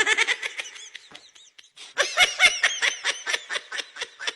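High-pitched laughter in quick rapid bursts: a first bout that fades within the first second and a half, then a louder bout starting about two seconds in.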